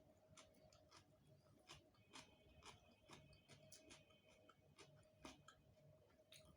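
Faint close-miked eating sounds: irregular soft clicks of chewing and mouth noises, about two or three a second, over a faint steady hum.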